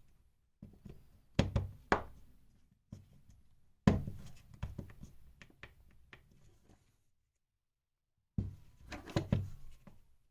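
Parts of a cordless impact driver being handled and seated during reassembly: the motor and its nylon housing going into the plastic casing. Sharp knocks and clicks come in three short bursts, with silence between them.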